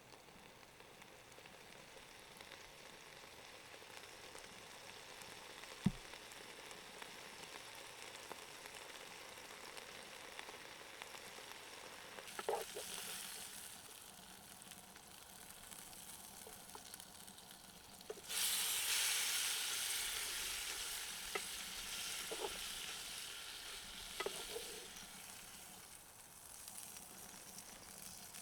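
A fire crackling and hissing, with sharp pops every few seconds; about eighteen seconds in the hiss jumps up suddenly and then slowly dies back down.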